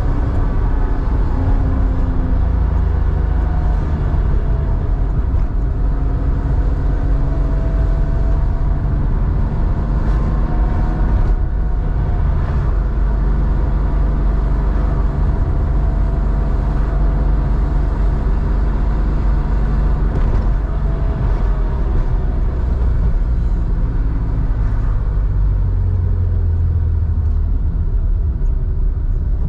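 Porsche 911 air-cooled flat-six, enlarged to 3.4 litres and breathing through a Scart 2-in-1-out muffler, running under way. The exhaust's pitch rises and falls as the revs change, over a heavy low rumble.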